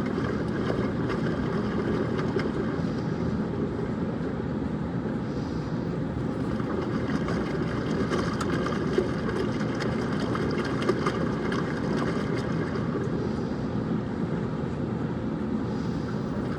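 Laundromat washing machines running mid-cycle, including a Maytag Neptune front-loader on a hot wash: a steady low rumble with no clear change.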